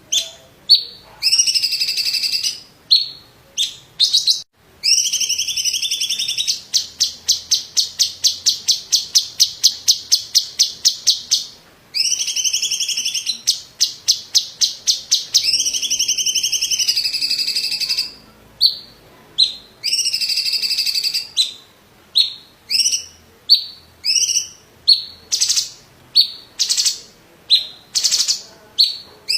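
Cucak cungkok leafbird singing loudly: sharp single notes and held warbling phrases, with a long fast roll of rapid repeated notes, about six a second, in the first half. Near the end it gives short separate notes, about two a second.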